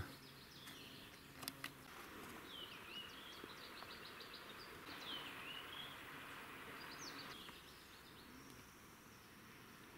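Faint songbird calls over quiet forest ambience: a few swooping high notes that dip and rise again, about three seconds and five seconds in, and a run of short chirps near the seventh second. A couple of soft clicks sound about a second and a half in.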